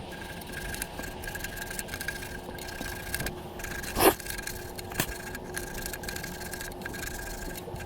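Scraping and rubbing over a faint steady hum, with two sharp knocks about four and five seconds in.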